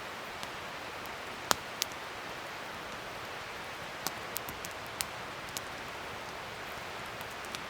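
Wood fire burning with a steady hiss, broken by sharp crackles and pops: a loud pop about one and a half seconds in, then a scatter of smaller pops around the middle.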